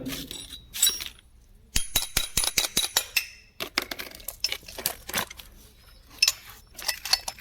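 Small metal starter-motor parts clinking and tapping against each other as they are handled, in quick irregular runs of clicks.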